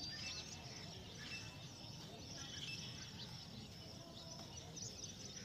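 Faint outdoor background noise with scattered short bird chirps.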